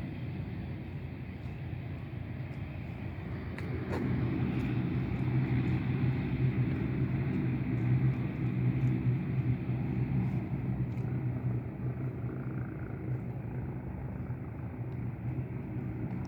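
Steady low vehicle engine rumble that grows louder about four seconds in and stays up.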